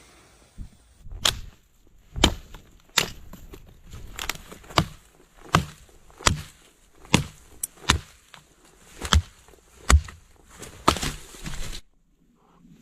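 Wood being chopped: about a dozen sharp strikes, a little faster than one per second, stopping abruptly near the end.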